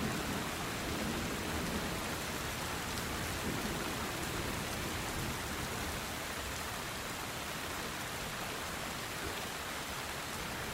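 Steady rain pattering on a tin roof, an even hiss of many drops. The tail of a low thunder rumble dies away in the first second or two.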